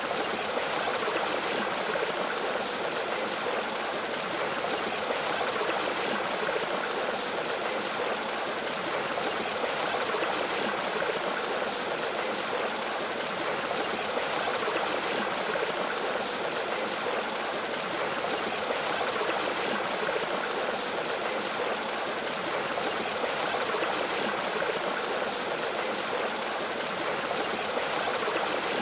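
Mountain stream with a small waterfall, water flowing and splashing over rocks in a steady, even rush.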